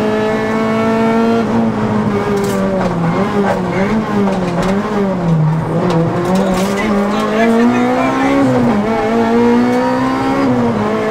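Honda Civic Type-R's 2.0-litre four-cylinder engine running at rally pace, heard from inside the cabin. The revs stay high, waver and dip through the bends, and drop sharply at gear changes, about a second and a half in and twice more near the end.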